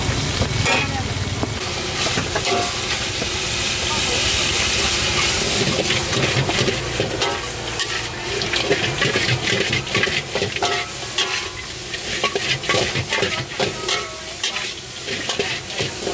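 Food sizzling as it fries over high heat, with cooking utensils stirring and clacking against the cookware. The clacks come thick and fast from about six seconds in.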